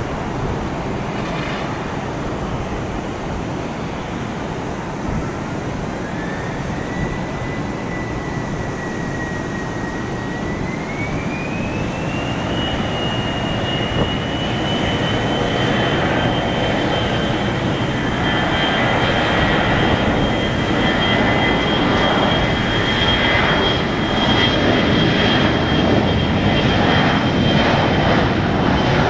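Boeing 737-400's CFM56-3 turbofan engines spooling up for takeoff: a whine rises in pitch in two steps and settles into a steady high whine about twelve seconds in. Under it, the jet noise grows louder toward the end.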